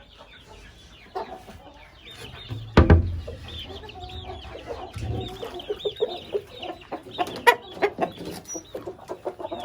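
Chickens clucking and calling repeatedly, with a loud thump about three seconds in and a smaller one a couple of seconds later.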